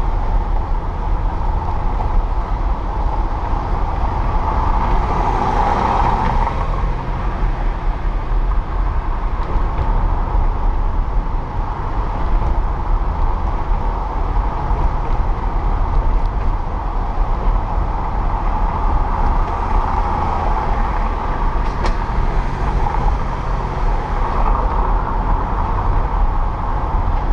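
Car driving through city streets: a steady low rumble of engine and road noise, with other traffic around it growing louder for a few seconds at a time, most clearly about five seconds in and again near the end.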